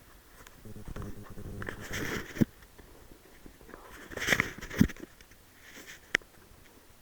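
Rustling and scuffing of a person moving, twice for a second or two, each ending in a sharp click, with one more sharp click about six seconds in.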